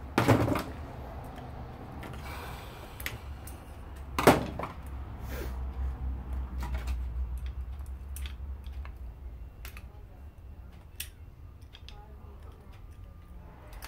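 Handwork on an electric lawnmower motor during teardown: two sharp knocks, one at the start and one about four seconds in, and many small clicks of tools and parts, over a low steady hum.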